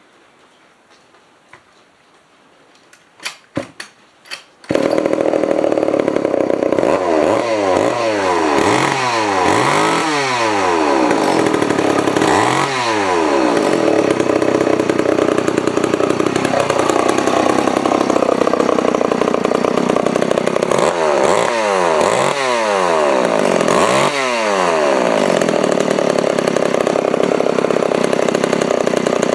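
Vintage Montgomery Ward Featherweight two-stroke chainsaw: a few short knocks, then the engine starts about five seconds in and runs loud, revved up and let back down several times in bursts. It runs well after its rebuild, with the low-speed mixture perhaps needing a little fine tuning.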